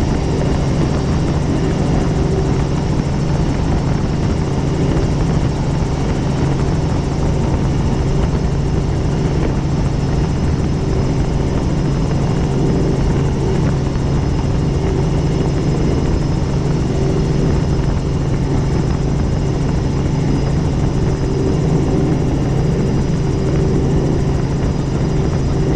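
Helicopter in flight, its rotor and turbine engine running with a steady drone that holds the same pitch throughout.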